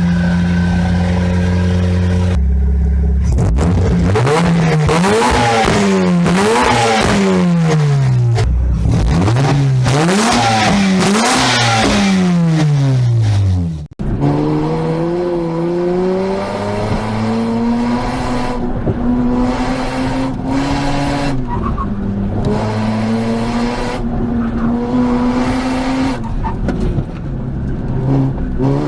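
Mazda RX-8's twin-rotor rotary engine through an HKS Hi-Power cat-back exhaust. It holds a steady engine speed, then is revved up and down several times, then after an abrupt cut it is driven hard with the pitch climbing through long pulls and dropping at gear shifts.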